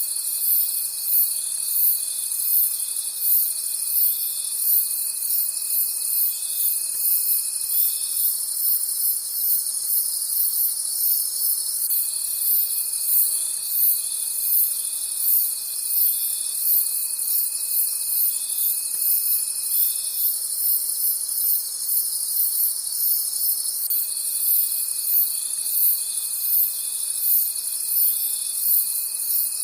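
Night chorus of crickets: high chirps pulsing in a steady rhythm over a continuous high trill. A fainter, lower insect tone comes and goes every several seconds.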